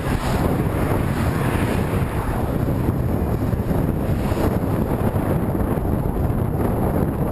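Steady wind buffeting the microphone, a dense low rumble with hiss above it, from moving against a strong headwind.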